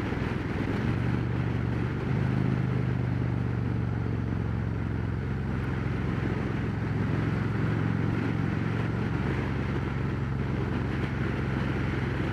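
Harley-Davidson Road Glide Special's V-twin running steadily at cruising speed, through Rinehart true-dual exhausts, under constant wind noise on the helmet microphone. The engine note rises slightly about two seconds in and then holds steady.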